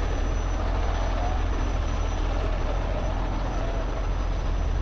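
Heavy truck's diesel engine idling: a steady low rumble.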